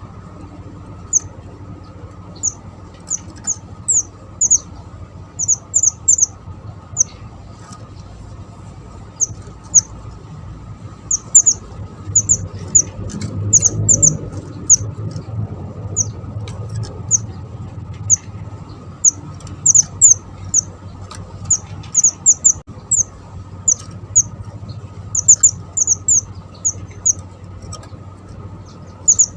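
Small bird known in Java as the mantenan, calling busily: many thin, very high chirps, some single and some in quick runs of two to four.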